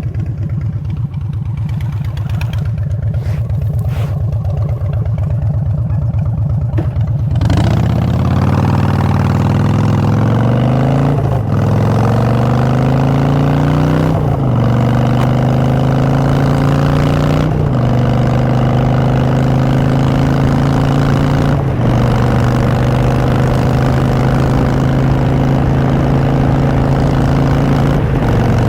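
Harley-Davidson Street Bob V-twin with Vance & Hines Short Shots exhaust idling, then pulling away about seven seconds in. It accelerates in rising pulls, shifting up four times, and then holds a steady cruise.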